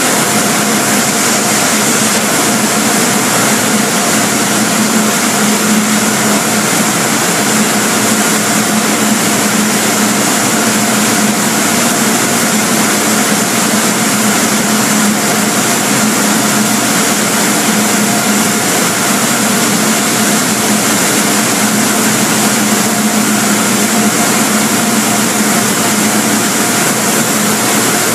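Car wash machinery running: a loud, steady whir with a constant hum and a hissing rush of spray or air.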